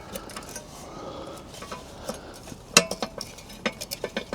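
Steel hand tools and fasteners clinking and rattling against each other, a handful of sharp metal clinks, the loudest about three seconds in with a short ring.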